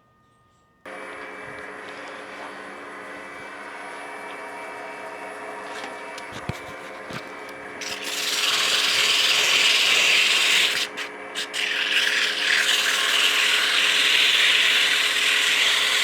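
Oneway wood lathe running with a steady motor hum, then sandpaper pressed against the spinning hickory spatula paddle gives a loud rasping hiss from about halfway through, with a short break before it resumes.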